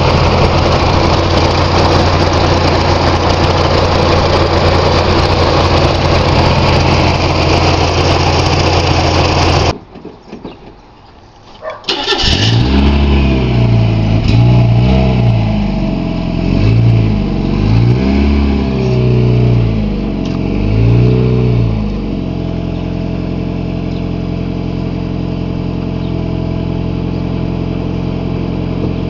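1991 Mazda Miata's 16-valve four-cylinder engine idling steadily. About ten seconds in it goes quiet for about two seconds, then starts again and is revved up and down several times before settling back to a steady idle.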